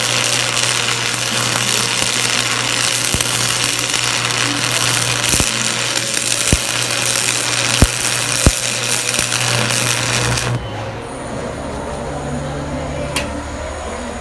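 Stick-welding arc burning a 6013 rod, a steady frying crackle with scattered sharp pops while the bead is laid back and forth. The arc breaks off suddenly about ten and a half seconds in, leaving a steady low hum.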